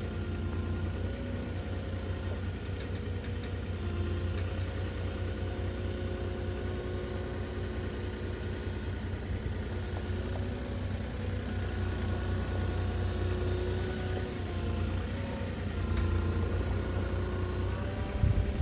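Truck engine running steadily with a low rumble, and a short loud knock near the end.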